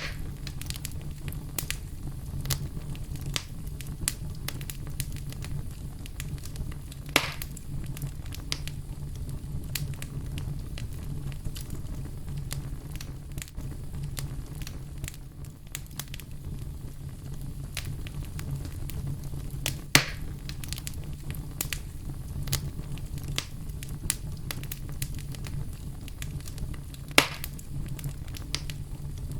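Firewood burning: a steady low rush of flames with frequent small crackles and three louder pops spread through.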